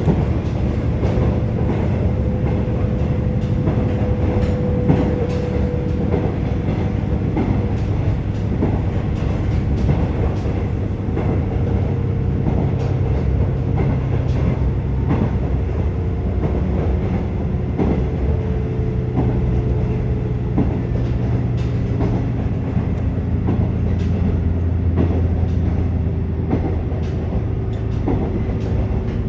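Interior sound of a KiHa 47 diesel railcar under way: a steady diesel engine drone with scattered clicks of the wheels over rail joints.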